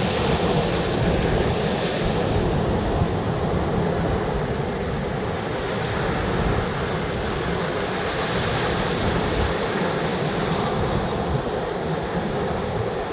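Wind buffeting the microphone, with a low, uneven rumble, over the steady wash of sea surf.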